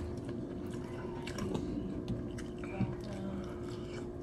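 Close-miked chewing of seafood-boil food, with scattered small clicks and mouth smacks over a steady low hum.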